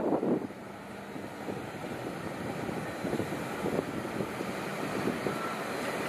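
Passenger carriages of Queensland Rail's Cairns diesel tilt train rolling past, a steady rumble of wheels on rail with repeated light clacks. It is louder for the first half second, then settles.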